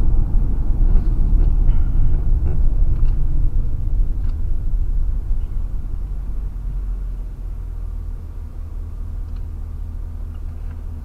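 Low, steady road and engine rumble inside a Suburban's cabin while driving. It grows quieter about halfway through.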